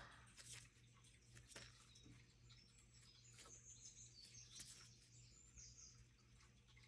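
Near silence: room tone with a low steady hum and a few faint, short high chirps around the middle.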